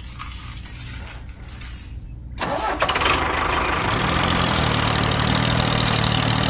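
An engine starts about two and a half seconds in, with a sudden rise in level, then settles into steady running.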